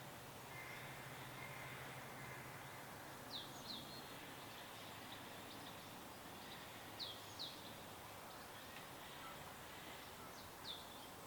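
Birds chirping faintly over a steady background hiss: a high, quick downward-sweeping chirp comes in pairs three times, about every three and a half seconds.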